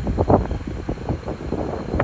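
Freight train passing: a low rumble with irregular knocks and clatter, and wind buffeting the microphone.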